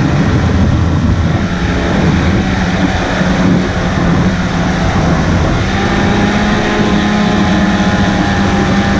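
15-horsepower outboard motors running steadily under way, a constant engine drone over a broad rushing noise.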